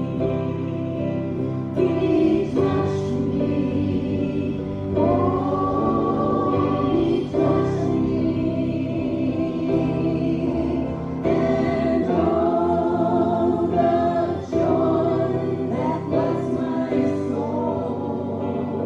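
A group of voices singing a gospel hymn with instrumental accompaniment, notes held for a second or more.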